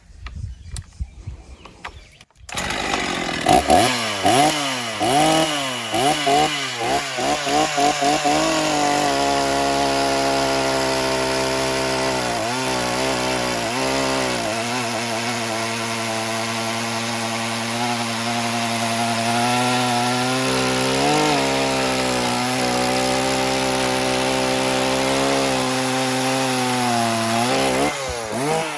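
Husqvarna 50 Rancher, an old 50cc two-stroke chainsaw, comes in about two seconds in, revs up and down a few times, then holds high revs through a long cut into wood, dipping briefly a few times. The operator found it the most gutless saw of the test, with about half the revs of the newer ones.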